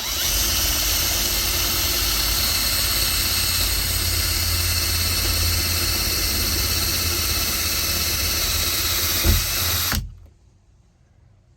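Power drill running steadily for about ten seconds, starting and stopping abruptly, with a short low thump near the end.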